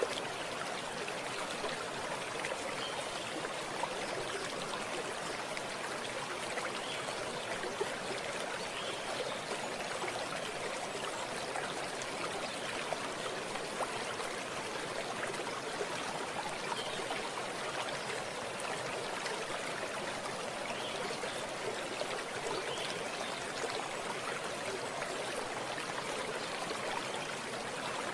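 Running water flowing steadily over stones, a continuous rushing with small splashes and trickles scattered through it.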